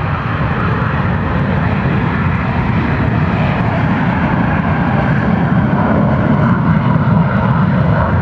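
Military jet, which the spotter takes for a Northrop F-5, on its takeoff run: a steady, thunderous jet-engine roar that grows gradually louder.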